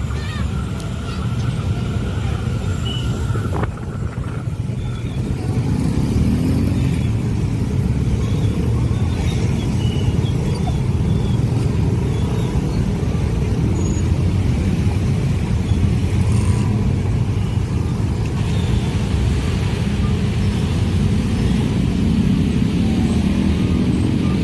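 Vehicles passing close by, a loud steady low rumble with no break.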